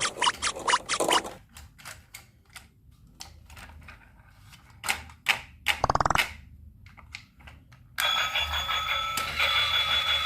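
Clicking and tapping of small plastic toy parts, quick and regular at first and then sparse, with a brief buzz about six seconds in. About eight seconds in an electronic tune starts and keeps playing.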